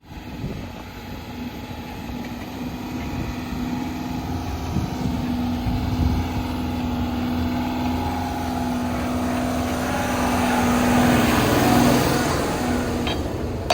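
A heavy diesel engine running steadily with a low, even hum, growing louder and rougher about two-thirds of the way through before easing off near the end.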